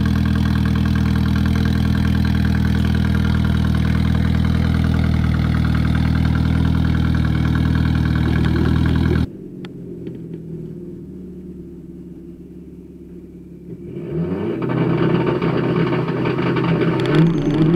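Mazda 323 BG's turbocharged B6T four-cylinder engine, fitted with a new turbo, idling steadily at the tailpipe. About nine seconds in, the sound cuts to inside the car's cabin, where the engine is quieter, and from about fourteen seconds it revs up as the car pulls away.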